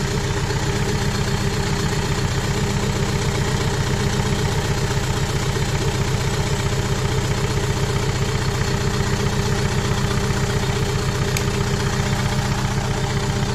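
Renault Kangoo's 1.5 dCi four-cylinder diesel idling with a steady, even pulse. It is running unevenly on three cylinders: the number-one injector is not working, and unplugging its connector changes nothing.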